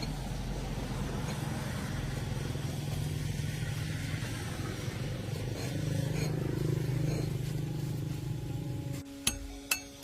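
A vehicle engine running steadily with a low hum, cutting off abruptly about nine seconds in, followed by a few sharp clinks.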